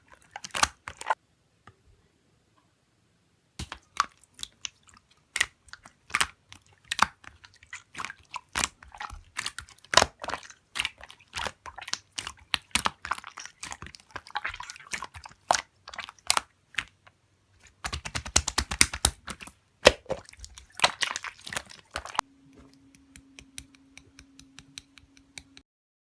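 Slime being squeezed and poked by hand, a fast run of sticky clicks and pops with a short pause early on and a dense stretch of crackling later. Near the end the clicking gives way to a faint steady hum.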